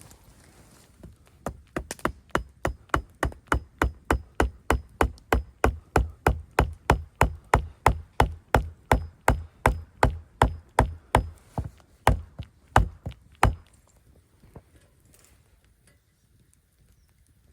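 A tool striking wood in a steady run of sharp blows, about three a second for some twelve seconds, slowing for the last few strikes, each with a faint metallic ring.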